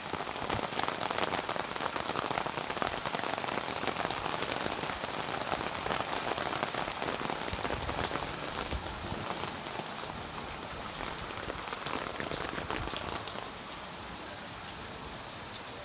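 Rain pattering steadily on surfaces after a hailstorm, a dense hiss of many small drop ticks, easing slightly near the end.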